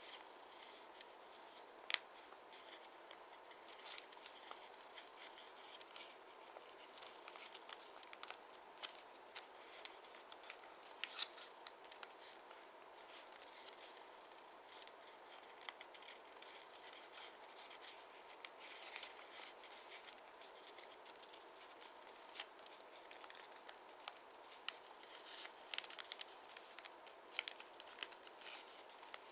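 A square of origami paper being folded and creased by hand: scattered short crinkles, taps and scrapes over a faint steady hiss, with two sharper snaps about two and eleven seconds in.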